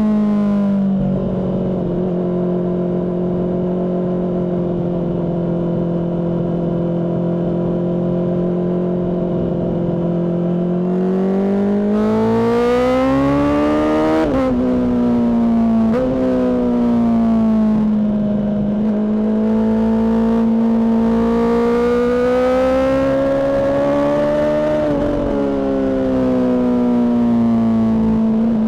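Honda CBR600RR's inline-four engine through a Mivv aftermarket exhaust, heard while riding. It holds a steady note for about ten seconds, then revs up, drops sharply in pitch twice in quick succession as it shifts up, climbs slowly again and eases off near the end.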